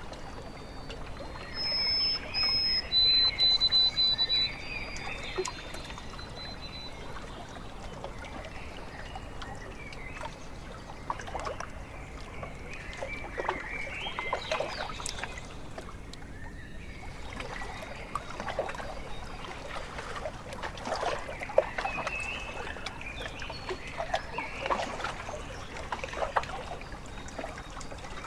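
Small waves lapping and trickling at a lake shore, with scattered small splashes. A bird's high whistled call is heard about two seconds in: two short notes, then a longer, slightly lower one.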